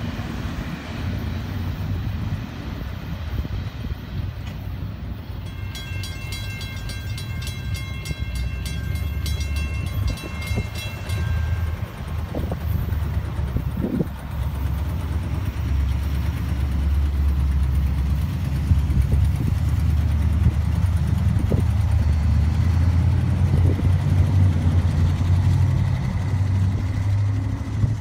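Low rumble of a departing freight train. A railroad crossing bell rings rapidly for several seconds around the middle, then stops. The rumble grows louder in the second half.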